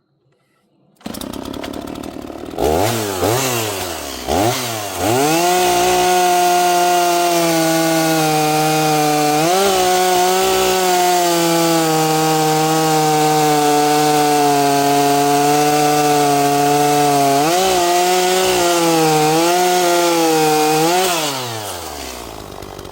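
Small 45 cc-class two-stroke chainsaw starting up about a second in, revved a few times, then held at high revs for about fifteen seconds while cutting through a black oak log, dipping slightly now and then under load. It drops back to idle near the end.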